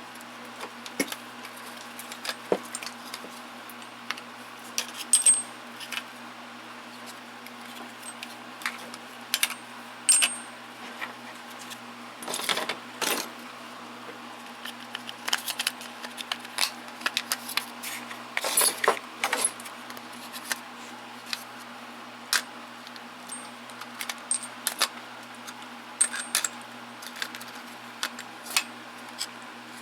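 Small metal tools and parts clinking and rattling as they are handled and sorted, in scattered sharp clicks with two longer rattling flurries, one about midway and one about two-thirds through.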